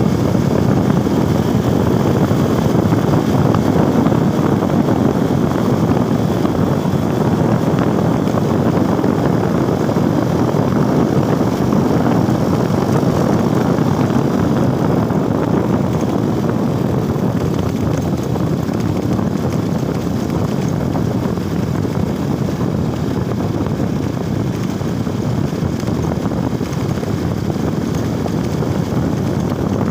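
A motorcycle running on the road, with a steady rush of wind on the microphone from the ride.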